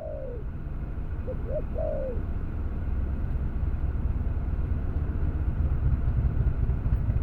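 Spotted dove cooing: a short phrase of four notes, the first and last sliding down in pitch, in the first two seconds. A steady low rumble runs underneath and is the loudest sound.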